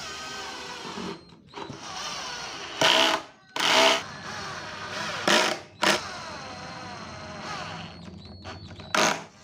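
A power tool, likely a drill, run in five short, loud bursts over a steady background sound.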